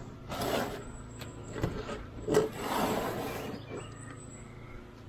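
Irregular scraping and rustling of packed gutter debris being handled, with a sharp knock about a second and a half in.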